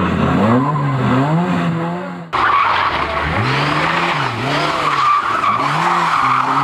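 Competition car engines driven hard, the engine note rising and falling over and over as the throttle is worked, over a hiss of tyres sliding on the surface. About two seconds in the sound cuts abruptly to another car doing the same.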